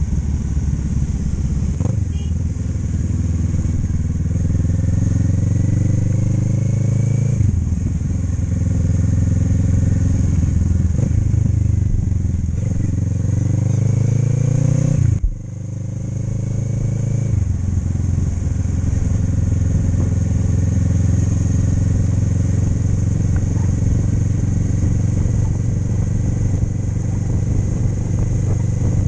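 Motorcycle engine running on the road, its pitch rising as it accelerates, with gear changes about seven and fifteen seconds in. The second change comes with a brief dip in loudness, and after it the engine holds a steady speed.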